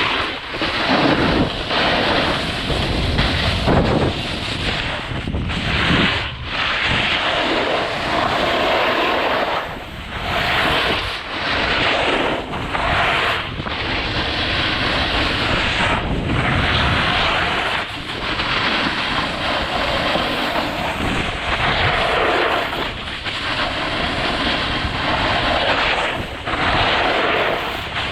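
Skis carving and scraping on snow during a fast descent of a steep run, a loud rush that swells and dips every second or two with the turns, mixed with wind buffeting the microphone.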